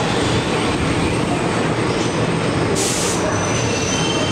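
Passenger coaches rolling past on the rails with a steady rumble of wheels. About three seconds in there is a short hiss, then thin high wheel squeals begin.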